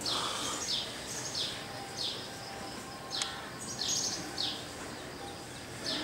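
A small bird calling: a series of short, high chirps, each sweeping down in pitch, coming about one or two a second with a longer pause after the middle, over a steady outdoor background hiss.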